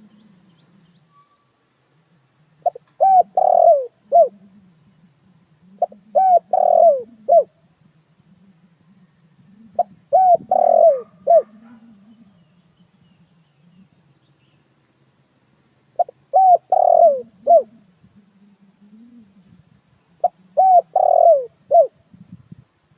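Spotted dove cooing: five phrases of four or five short, falling coos each, spaced a few seconds apart.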